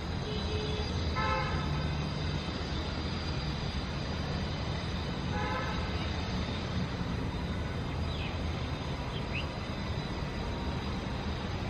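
Steady city traffic rumble, with two short horn toots about four seconds apart and a couple of faint bird chirps near the end.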